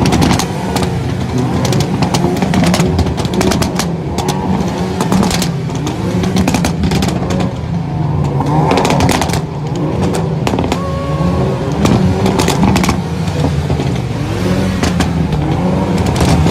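Hyundai Veloster N 2.0-litre turbo four-cylinder engines revving up and down over and over, their exhausts popping and banging with many sharp cracks between the rev sweeps.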